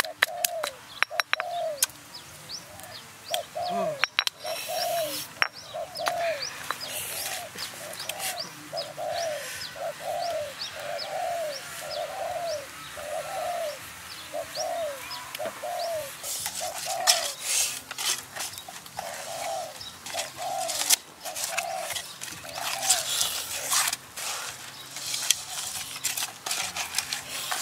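A bird calling one short hooting note over and over, evenly, a little more than once a second, stopping a few seconds before the end. A few sharp knocks of a stone pestle come at the start, and later there are rustling and scraping sounds of hands working paste into a pot.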